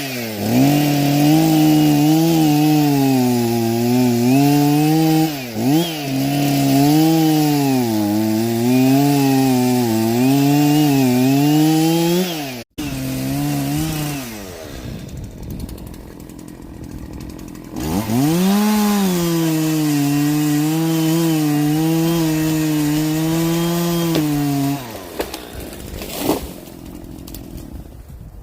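Chainsaw cutting into a tree under load, its engine pitch dipping and recovering as the chain bites, for about twelve seconds. It then drops back to a lower, quieter running, revs up again and cuts for about six more seconds before the engine note falls away. A single sharp crack comes near the end.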